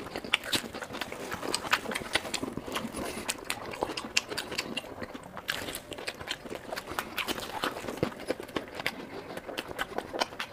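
Close-miked chewing and biting of food: a dense, irregular run of sharp, wet mouth clicks and smacks.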